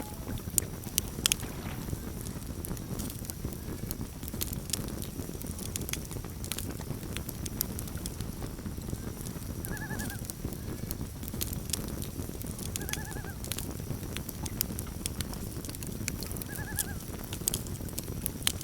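Campfire crackling and popping over a steady low rush. About ten seconds in come three short quavering loon calls, roughly three seconds apart.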